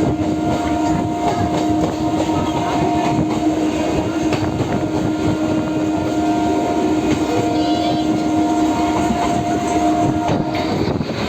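Local passenger train running, with the rumble and clatter of the carriages. A steady pitched tone sounds over it and cuts off suddenly near the end.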